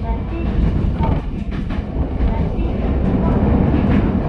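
Ichibata Electric Railway 7000 series electric railcar running, heard from inside the car: a steady low rumble with a few clicks from the wheels passing over the rails.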